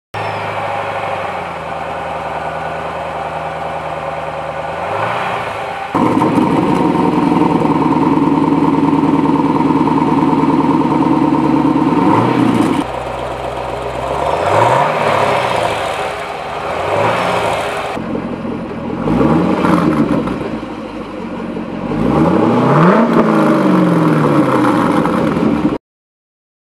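2014 Camaro SS 6.2-litre V8 exhaust: idling, then held at a steady higher speed for several seconds, then revved up and back down several times, with a longer held rev near the end before cutting off suddenly.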